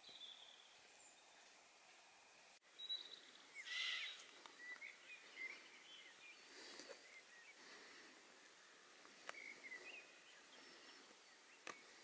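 Near silence outdoors, with faint scattered bird chirps a few seconds in.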